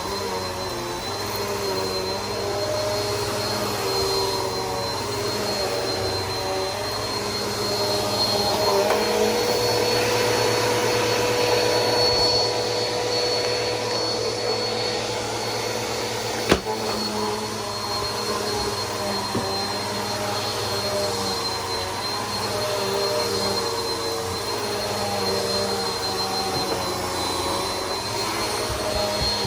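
Bissell PowerForce Helix upright vacuum running over a rug, with a steady motor whine whose pitch wavers slightly. There is one sharp click about sixteen seconds in.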